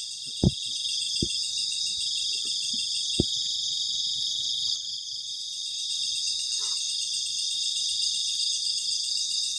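Night chorus of crickets: a steady, shrill, pulsing chirring. A few short soft knocks sound in the first few seconds.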